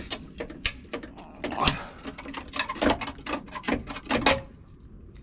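Irregular sharp metal knocks and clatters, a dozen or so, as cut sheet-steel body panel from a car's inner wing is worked loose and pulled away; they stop near the end.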